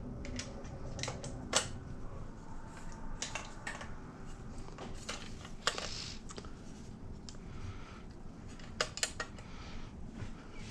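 Scattered clicks and taps of a hard drive being handled and fitted into a desktop computer's drive bay, with a few sharper knocks about one and a half seconds in and near the middle.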